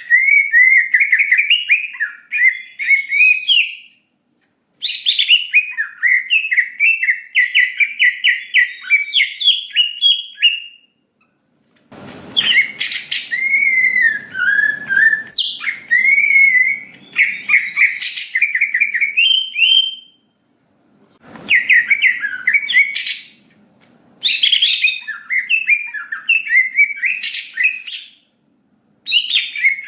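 Cucak ijo (greater green leafbird) singing in fast, chattering, warbling phrases of a few seconds each, separated by short pauses.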